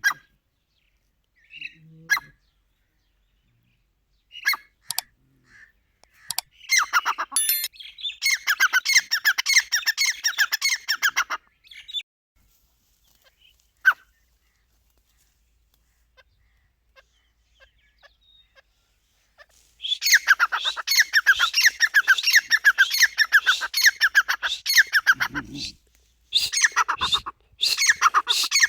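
Dakhni teetar (grey francolin) calling loudly in long runs of rapid, shrill notes: one run of about five seconds, a quiet stretch with only a few faint notes, then a second long run and a third starting near the end. A brief low thud comes just before the last run.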